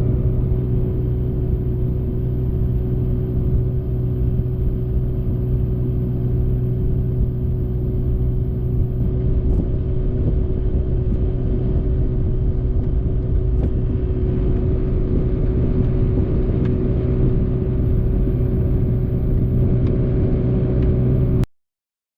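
An engine running steadily at a constant speed, a low, even hum and rumble that cuts off abruptly near the end.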